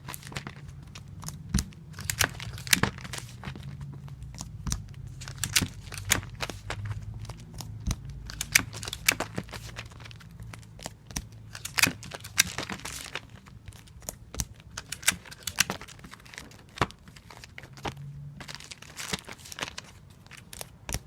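Clear adhesive tape being pulled off a dispenser roll and torn off, with paper and plastic crinkling as comic books are taped. Irregular sharp clicks and rips, with a few longer rasping pulls of tape.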